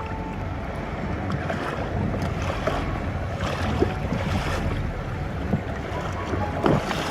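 Kayak paddle dipping and splashing in choppy water, a few louder splashes, the strongest near the end, over a steady rumble of wind on the microphone.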